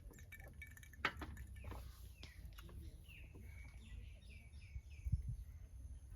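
A bird calling: a quick run of short, falling chirps in the middle, over a steady low wind rumble on the microphone, with a few sharp clicks about a second in.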